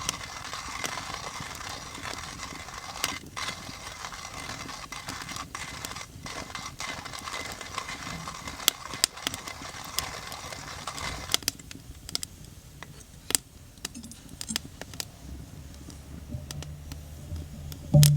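Coffee beans being ground in a coffee mill, a steady gritty grinding with small clicks that stops about two-thirds of the way through. After that only scattered crackles from a wood fire are heard.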